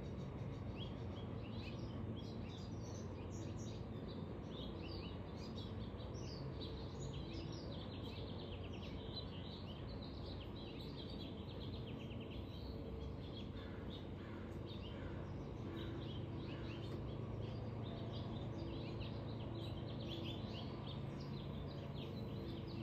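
Small birds chirping in quick, high twitters over a steady low hum of background noise.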